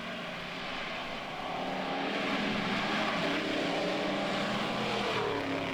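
Mercedes-Benz Grand Prix racing car straight-eight engine running hard on the circuit, growing louder about a second and a half in, then dropping in pitch near the end as the car goes past.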